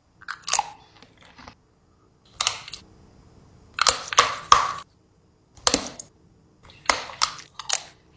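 Close-up biting and chewing of crunchy food: a string of sharp crunches, one or a quick cluster every second or so, with short quiet gaps between.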